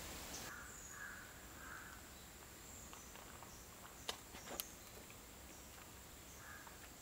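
Faint outdoor ambience with distant birds chirping now and then. Two short sharp clicks come about four seconds in.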